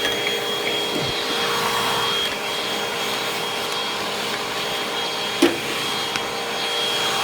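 Hoover upright vacuum cleaner running steadily, its motor making a constant whine over a rushing noise. A few sharp knocks cut through, the loudest about five and a half seconds in.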